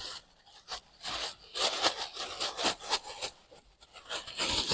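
Canary seed mix poured out of its bag into a mixing container: dry seeds hissing and rustling in irregular surges.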